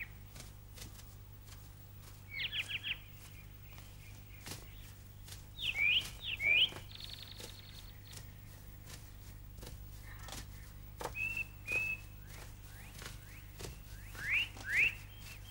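Birds chirping in short groups of quick rising calls every few seconds, over a faint steady hum.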